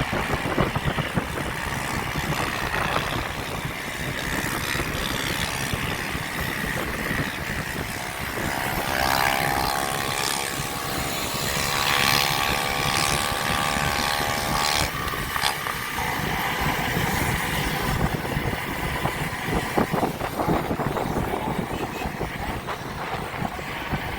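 Wind and traffic noise while riding on the road. From about nine seconds to fifteen seconds a steady engine note from a nearby motor vehicle rises over the rush, then fades out.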